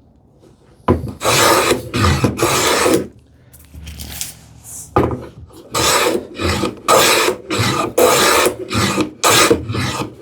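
Wooden hand plane taking shavings off a wooden drawer front, with repeated rasping strokes. There are three strokes about a second in, a pause, then a quicker run of about seven strokes.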